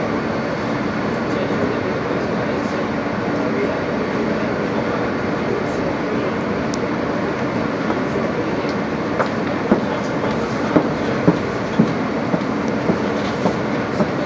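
Steady rumble of an R160B subway car running through the tunnel, heard from inside the car. In the last few seconds a run of sharp clicks comes from the wheels clacking over the rails.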